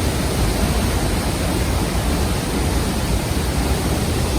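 Dambri Waterfall pouring at close range: a loud, steady rush of falling water.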